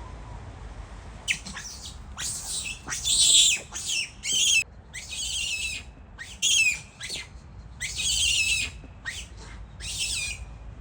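Macaque monkeys screaming in a fight: a run of shrill screeches, one after another, starting about a second in.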